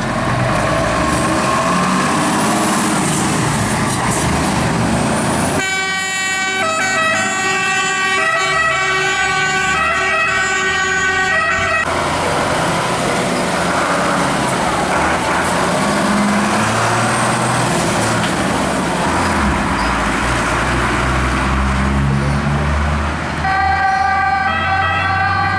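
Fire engines pulling out with heavy engine and road noise throughout. A two-tone siren sounds loudly from about six to twelve seconds in, and starts again near the end.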